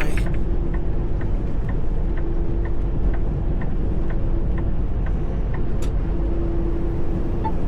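Steady engine and road noise inside a moving semi truck's cab, with a faint regular tick about twice a second.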